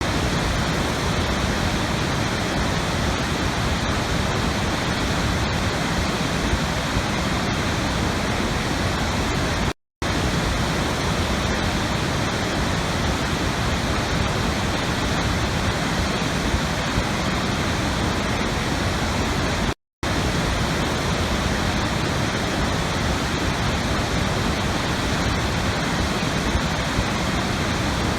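Steady rushing water, an even full hiss with no separate splashes, cutting out for a split second twice, about ten seconds apart, where the recording loops.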